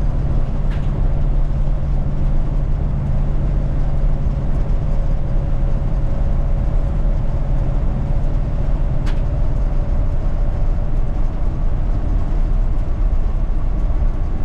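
1980 Chevy K20 pickup heard from inside the cab while driving: a steady engine and road rumble with no change in pace, and two brief sharp clicks, about a second in and about nine seconds in.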